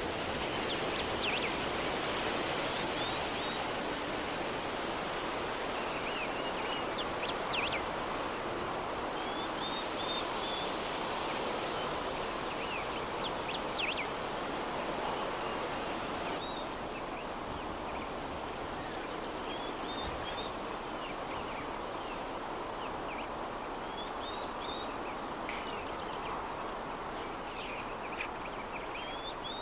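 Steady, soft breeze noise, with short, high bird chirps and calls coming and going over it.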